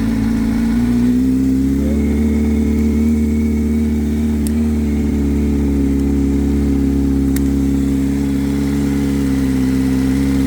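Motorcycle engine idling steadily, just jump-started from a car battery because its own battery is too weak to crank it. The idle rises a little about a second or two in, then holds even.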